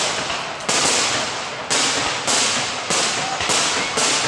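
Aerial firework shells bursting in quick succession, about seven bangs in four seconds, each trailing off before the next.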